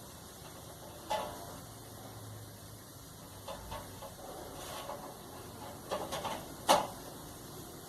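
Scattered clicks and knocks of clothes-dryer parts being handled and fitted: a few light ones, a small cluster, then the sharpest one near the end.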